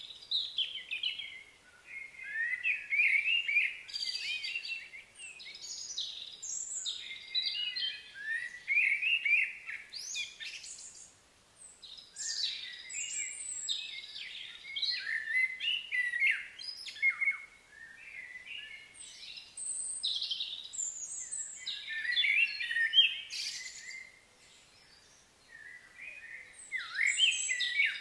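Birds chirping and singing in a busy run of short, high chirps and trills, with a couple of brief lulls.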